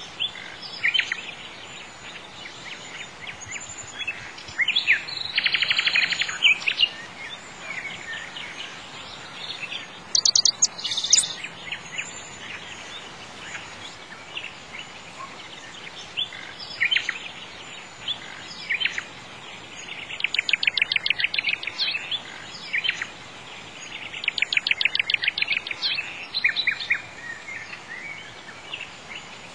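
Birds chirping and singing in short, quick trills over a steady background hiss, with several bursts of rapid repeated notes.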